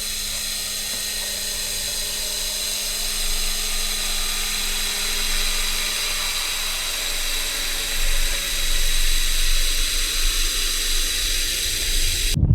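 A rubber boat's motor heard underwater through a hydrophone: a steady, drill-like whine over the hiss of rain on the lake surface, getting a little louder about eight seconds in and cutting off suddenly near the end.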